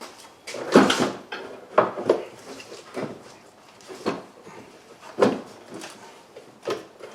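Irregular knocks and clatter of car parts and hand tools being handled and set down, about seven distinct strikes, the loudest about a second in.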